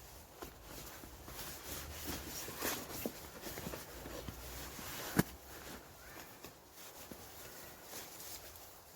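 Rustling and scattered light knocks of someone moving about and handling gear, with one sharp click a little past halfway.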